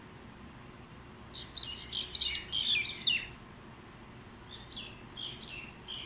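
Birds in a feeding flock chirping: a quick run of short, down-sliding chirps starting about a second and a half in and lasting nearly two seconds, then a shorter, sparser run near the end.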